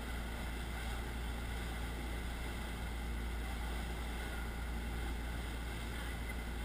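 Motorboat engine running steadily under way: a constant low drone with a hiss of wind and water over it.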